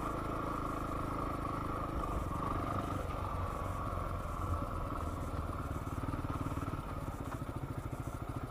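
Yamaha WR250R dual-sport motorcycle's single-cylinder four-stroke engine running steadily as the bike rides along, its engine pulse becoming more distinct in the last few seconds.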